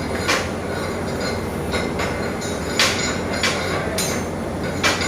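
Steady mechanical hum and hiss of welding equipment, broken by about five sharp metallic clicks.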